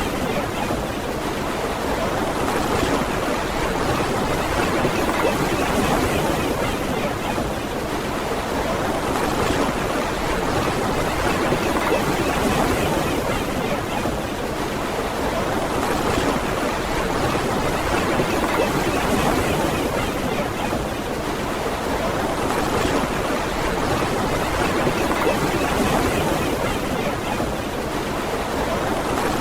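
Ocean surf on a beach: a steady rush of waves, swelling gently every few seconds.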